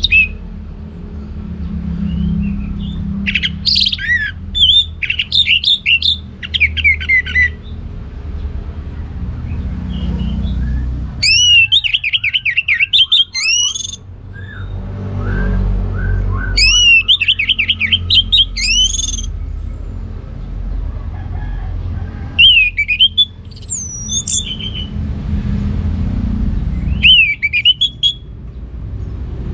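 Orange-headed thrush singing in five separate phrases of rapid, sliding whistled notes, each one to four seconds long with pauses between, over a steady low rumble.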